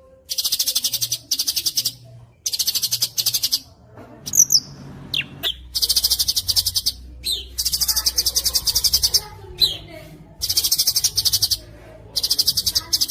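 Songbird singing a fast, dense training song: repeated bursts of rapid high-pitched trilling, each about a second long with short gaps, and a few quick sweeping whistles about four seconds in.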